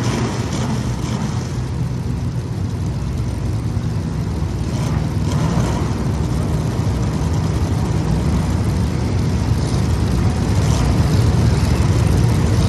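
Race car engines running together on track, a steady, dense drone that grows slightly louder toward the end.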